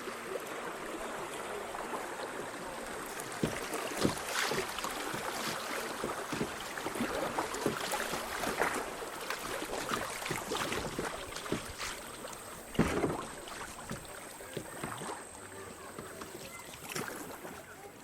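Kayak paddling on a creek: water splashing and running, with irregular paddle splashes and knocks, the loudest about four seconds in and near thirteen seconds.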